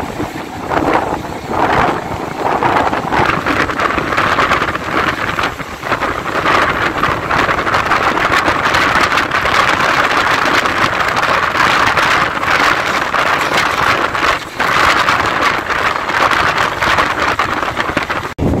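Electric multiple-unit local train running at speed, heard from its open doorway: steady wheel-on-rail rumble and clatter with wind buffeting the microphone.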